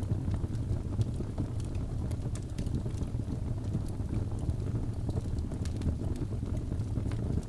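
Crackling fire: a steady low rumble of flames with irregular small pops and snaps scattered throughout.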